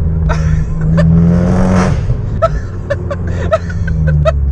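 Abarth 500's 1.4 turbocharged four-cylinder, straight-piped and decatted through a Bombardone exhaust, accelerating hard with its note rising. It then lifts off and lets out a rapid string of sharp pops and crackles from the exhaust on the overrun.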